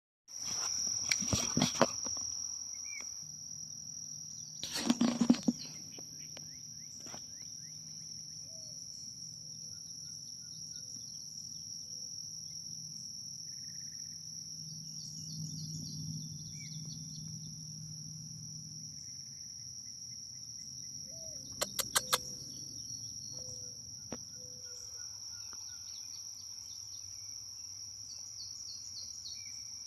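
Insects in a field keeping up a steady high-pitched drone, with scattered small bird chirps. A few short knocks or rustles stand out briefly near the start, about five seconds in and again around twenty-two seconds in, with three quick ones at the last.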